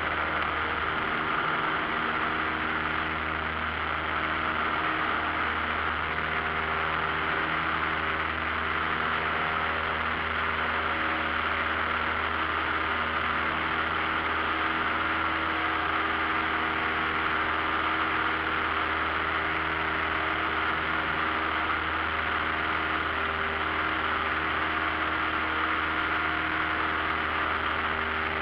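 Cessna 172 Skyhawk's piston engine and propeller running steadily at constant power, with a droning hum and a rushing hiss over it.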